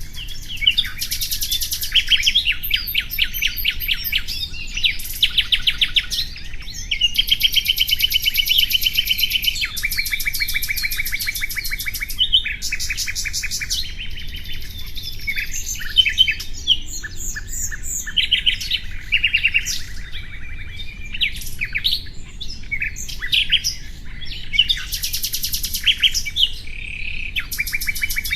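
Common nightingale singing: a steady run of varied phrases, each a rapid series of repeated notes or trills a second or two long, with short pauses between.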